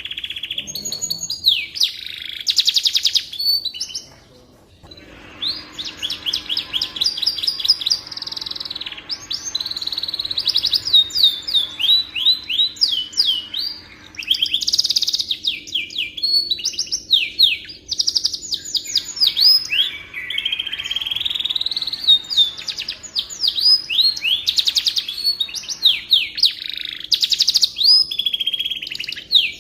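Domestic canary singing a long, continuous song of rapid trills and quickly repeated sweeping notes, with a brief pause about four seconds in.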